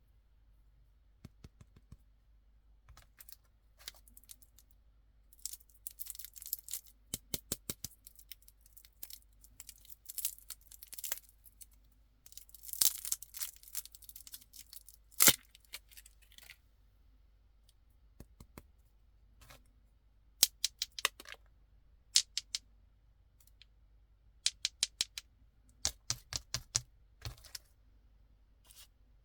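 Candy wrappers and packaging being handled and opened: short bursts of plastic crinkling and tearing, mixed with scattered sharp clicks and taps. A single loud sharp click comes about halfway.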